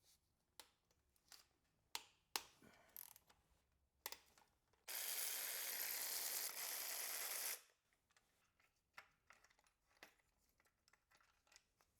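Hand tools clicking and clinking against metal parts of a BMW S52 engine bay while the belt tensioner is unbolted. About five seconds in, a steady hiss runs for nearly three seconds and then stops.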